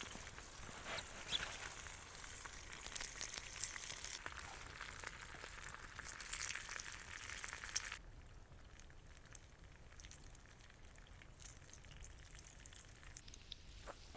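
Food sizzling and spitting in a pan over a campfire, with many small crackles and pops. About eight seconds in it drops abruptly to a much fainter sizzle.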